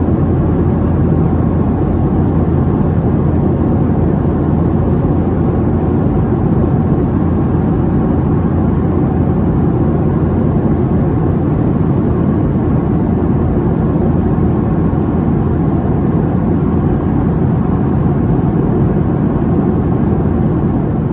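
Steady cabin drone of a Boeing 737-700 in cruise: airflow over the fuselage and its CFM56-7B turbofans, heard from inside the cabin at a window seat. The sound is low and even throughout.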